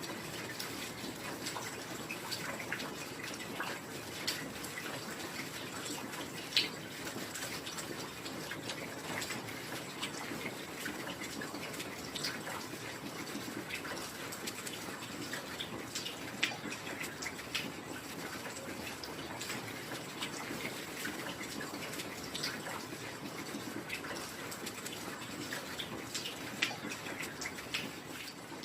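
Steady rain, with a dense patter of individual drops ticking and dripping over it and a few louder single drops.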